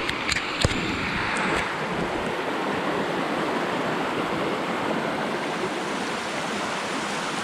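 Steady rushing of a fast-flowing creek, with a few sharp clicks in the first second.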